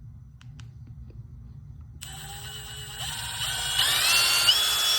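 Milwaukee Gen 4 impact driver spinning freely with no load at speed 2. It starts about two seconds in and whines, stepping up in pitch a few times as it comes up to speed.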